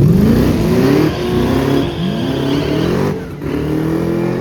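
Drag-racing car launching and accelerating hard, its engine pitch climbing and dropping back three times as it shifts quickly up through the gears, then holding high and steady near the end.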